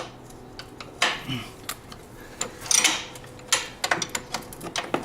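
Metal hand tools (wrenches and sockets) clinking and clattering as they are picked up, sorted through and set down: a string of sharp, irregular clinks.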